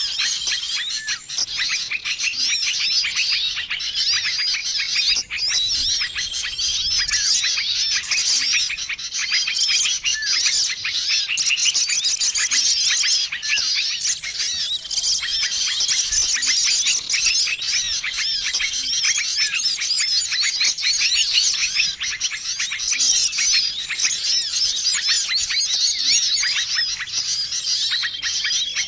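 Dense, unbroken chorus of many small songbirds chirping and twittering over one another, with a short level note recurring every few seconds. It is a mixed bird-lure (pikat) recording of small-bird calls, meant to draw wild small birds in.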